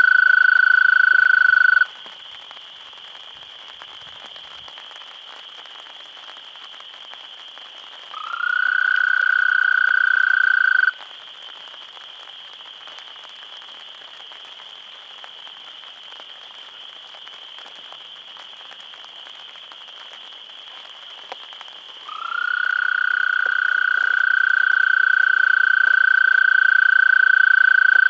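Male American toad giving its long, high, steady musical trill, the advertisement call that males use to attract females. The trill ends about 2 seconds in, returns briefly for about three seconds, then starts again near the end, each time sliding up slightly in pitch as it begins. Under it runs a fainter steady high-pitched background chorus.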